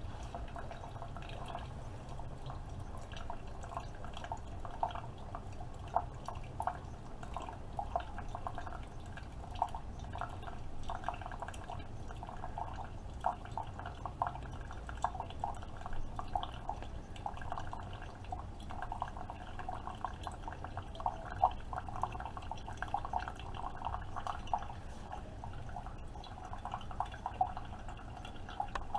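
Keurig K-Supreme Plus pod coffee maker brewing: coffee streams and drips into the cup with many small, irregular splashes over a steady low hum from the machine.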